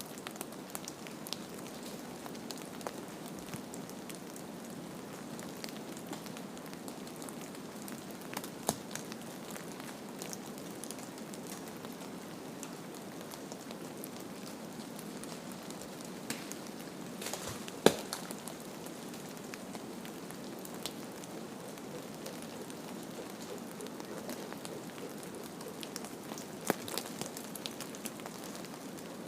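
Steady soft hiss with scattered crackles and pops, the sharpest about 18 seconds in and again near the end.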